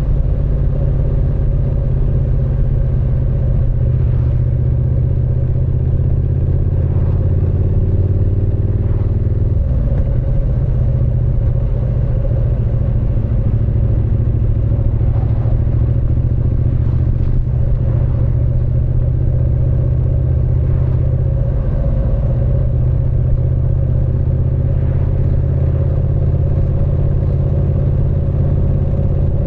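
Triumph Speed Twin 900's 900 cc parallel-twin engine and exhaust running steadily, heard from the rider's seat. The engine note shifts slightly about ten seconds in.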